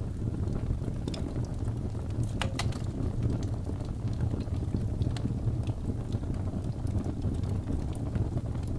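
Wood fire burning in a fireplace: a steady low rumble of flames with scattered crackles and pops, the loudest pop about two and a half seconds in.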